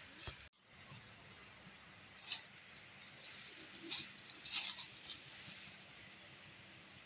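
A few short, sharp crackles or rustles over a steady hiss, the busiest spell about four to five seconds in, and a brief high rising chirp near the end.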